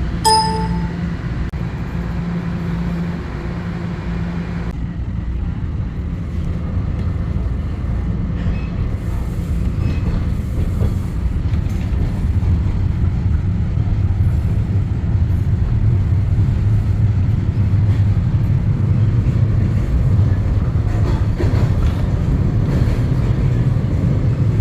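Inside a Line 5 Eglinton Bombardier Flexity Freedom light rail train running between stations: a steady low rumble of motors and wheels on the rails, growing louder in the second half. A brief chime sounds right at the start.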